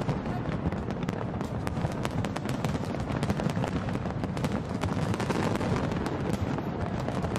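Fireworks bursting in a dense, continuous barrage: many rapid sharp bangs and crackles over a steady low rumble.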